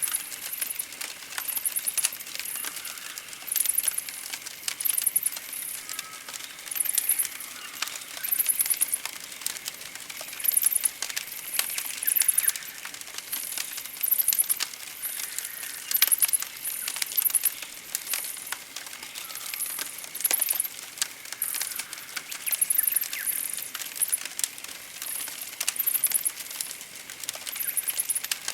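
Campfire crackling with frequent sharp cracks and pops, in a forest soundscape of very high chirping trills repeating about once a second and fainter birdsong.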